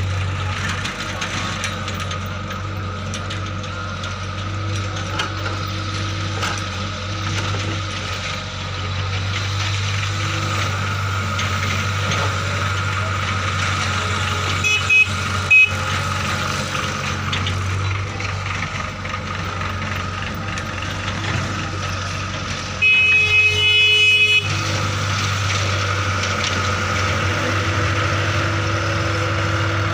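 Tractor engine running steadily. About halfway there are two short horn toots, and later a longer horn blast of about a second and a half.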